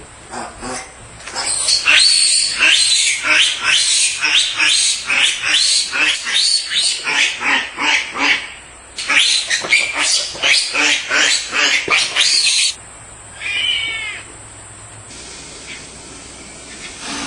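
Piglet squealing: a rapid series of high-pitched squeals for about eleven seconds, breaking off, then one more short squeal.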